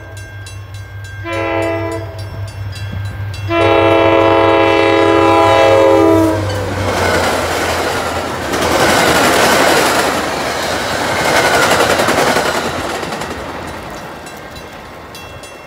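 Diesel locomotive horn sounding a short blast and then a long blast, the end of a grade-crossing warning, over the low rumble of the engine. A passenger train then passes with its wheels clattering over the rails, and the noise fades near the end.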